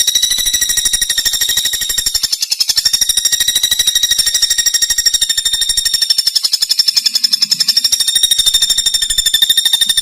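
Common flameback woodpecker (pelatuk bawang) giving a long, fast rattling trill: a rapid, unbroken string of high notes, over ten a second.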